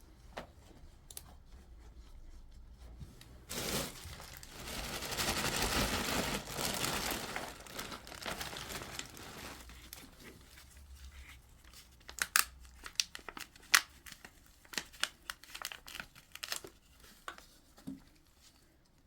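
Crinkling and rustling of something being handled for a few seconds, then a run of light, sharp clicks and taps.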